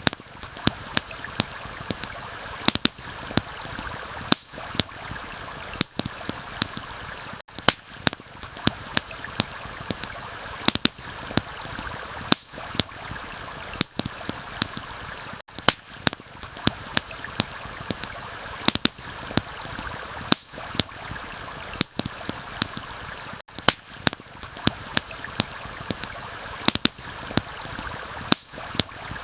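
Steady rush of a flowing stream mixed with the irregular sharp pops and crackles of a campfire burning, several snaps a second. The whole mix cuts out for an instant a few times.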